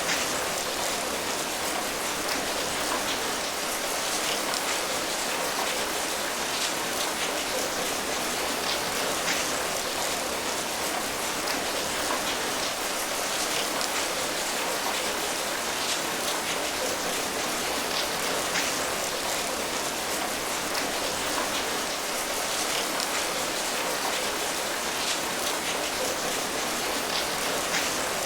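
Steady rain falling, an even hiss with faint individual drop patters scattered through it.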